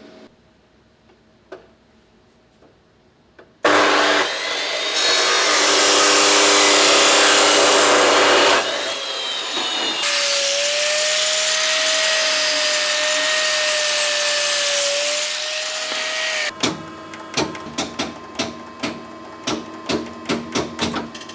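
A power tool runs loudly for about thirteen seconds, cutting metal exhaust pipe, with a steady whine through its second half; then a string of short metallic taps, about two a second.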